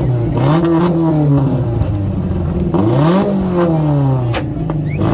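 Car engine revved in sharp blips: it climbs quickly and falls back slowly, twice, and a third rev begins right at the end.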